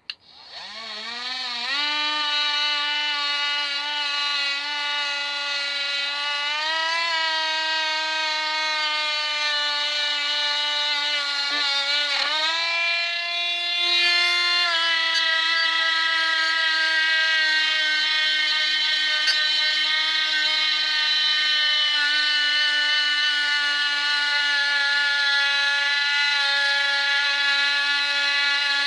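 Parkside cordless multi-grinder with a polishing disc spinning up with a rising whine, then running steadily while buffing a brass candlestick holder with Brasso, its pitch dipping briefly twice, around seven and twelve seconds in.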